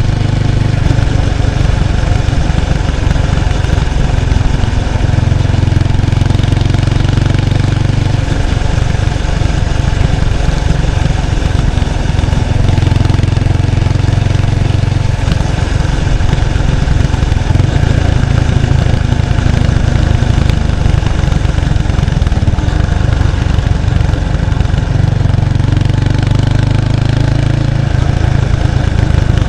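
1993 Kawasaki Estrella's 250cc single-cylinder engine running on the move through its stock muffler, heard close to the exhaust. The exhaust note rises and falls several times as the engine speed changes.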